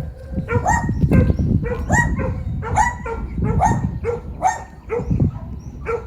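Dog barking repeatedly in quick, high-pitched barks, about two to three a second, over low rumbling noise.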